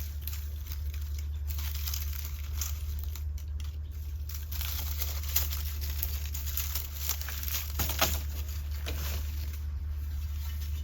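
Irregular crackling and rustling, many small sharp clicks, thickest in the middle, over a steady low hum.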